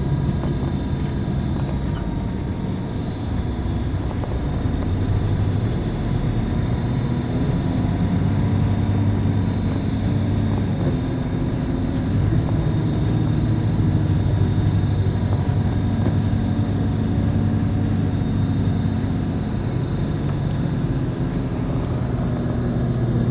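Scania K410IB coach's rear-mounted five-cylinder diesel engine heard from inside the passenger cabin, running steadily as a low drone with road and cabin noise, and a faint steady high tone over it.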